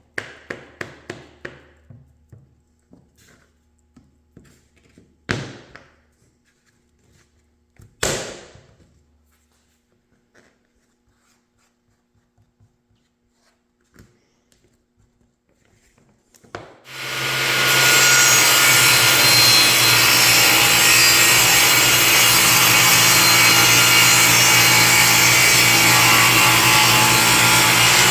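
Woodworking power tool cutting wood: it starts about two-thirds of the way through, rising over about a second, then runs steadily and loudly. Before it come a quick run of wooden taps and clicks and a few separate knocks, as pieces are handled on the bench.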